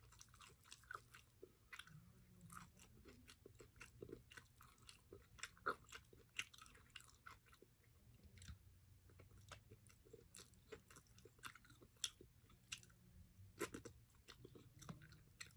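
Faint, irregular chewing and crunching of Jollibee Chickenjoy fried chicken as it is eaten piece by piece, with small clicks as the meat is torn by hand.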